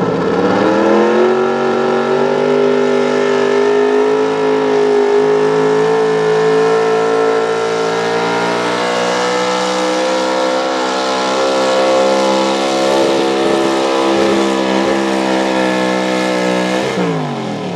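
Pro Stock 4x4 pulling truck's engine held at high revs under load as it drags the sled down the track. The pitch sags just after the start, climbs slowly through the pull, then drops steeply near the end as the throttle comes off.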